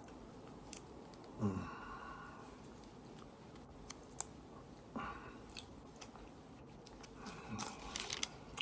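A person chewing food, with wet mouth sounds and a few sharp little clicks. Three short low sounds from the mouth or throat come at about a second and a half, five and seven and a half seconds in.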